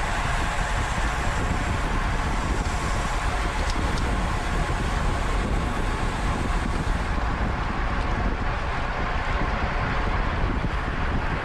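Steady wind rush over the microphone of a camera riding on a racing bicycle, mixed with tyre and road noise.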